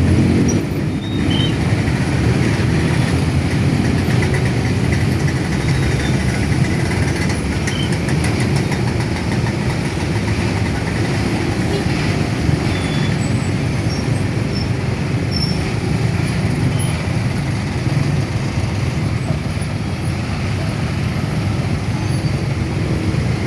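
Steady low rumble of motor vehicles, unbroken throughout.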